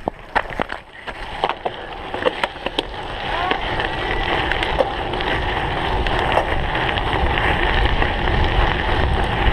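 Wind rushing over the microphone on a cyclocross bike in motion, growing louder and steadier about three seconds in, with sharp clicks and rattles from the bike over rough ground in the first few seconds.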